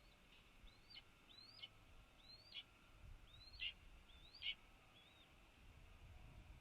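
Red-tailed hawk nestlings peeping: a series of about seven thin, high whistled notes, each rising and then dropping away sharply, about one every second or less, the loudest in the middle of the run.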